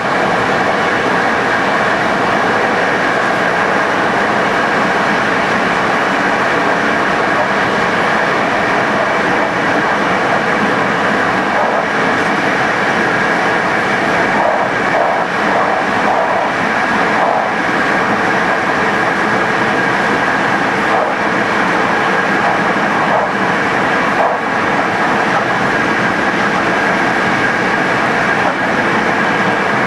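Locomotive-hauled passenger train running along the line: a steady rolling noise of wheels on rail, with a steady high tone over it and a few faint clicks from the wheels crossing rail joints.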